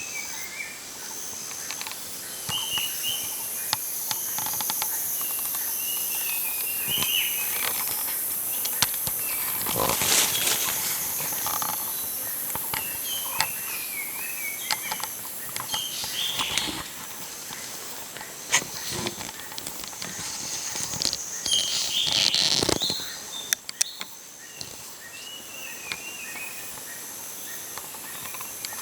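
Jungle ambience: a steady high insect drone with a regular pulsing call, over which birds give short repeated chirping phrases. Scattered clicks and rustles, with louder rustling bursts about a third of the way in and again about three-quarters through.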